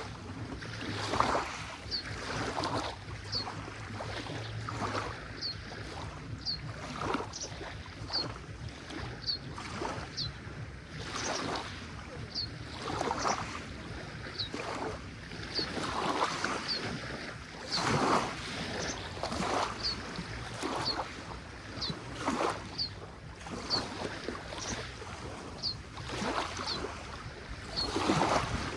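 Lake water lapping in small irregular splashes, with a short high chirp repeating about once a second throughout. A low hum runs under it for the first five seconds or so.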